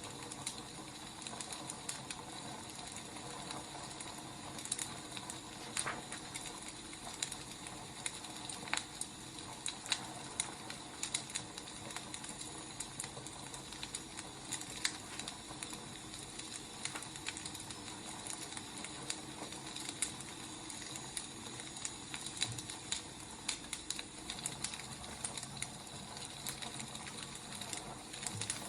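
Wood fire crackling: a quiet, steady hiss with irregular sharp pops and snaps.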